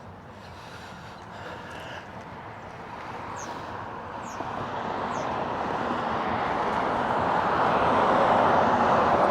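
Road noise of a passing vehicle, a steady rushing sound that swells gradually louder as it approaches.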